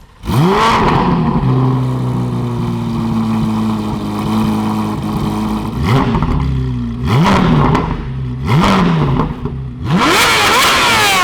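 C8 Corvette Z06's flat-plane-crank 5.5-litre V8, through a full titanium valved exhaust. It fires up just after the start with a flare, then settles into a steady fast idle. It is blipped three times in the middle and revved hard and repeatedly toward redline near the end.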